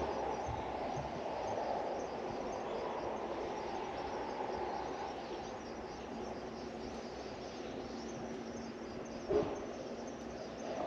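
Steady outdoor background noise that eases off slightly, with a faint steady hum in the second half and one short knock near the end.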